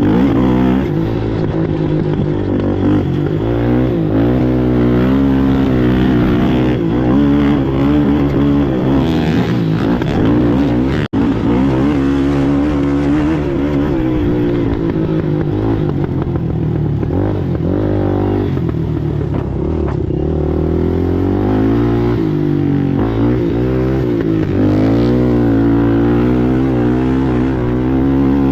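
Race ATV engine running hard, its pitch rising and falling over and over as the rider works the throttle and shifts. The sound cuts out for an instant about eleven seconds in.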